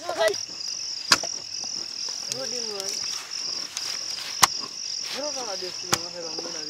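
Crickets or similar insects chirring steadily in a high, pulsing trill, with three sharp knocks spaced through it and faint distant voices.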